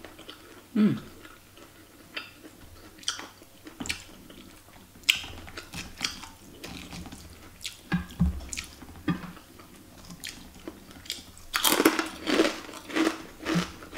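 Close-up chewing and mouth sounds of a person eating ketupat and fried tofu in peanut sauce, with scattered soft clicks. Near the end, a cluster of sharper sounds as a metal spoon scoops food in a clay dish.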